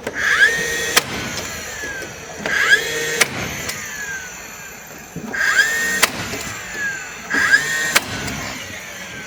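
A power drill driving screws into boards in four short bursts, each a quick whine that settles to a steady pitch, ends in a sharp click as the screw seats, and winds down.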